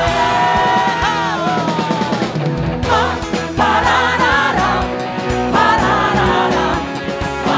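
Live church worship music: singers over a band with drums, keys and bass.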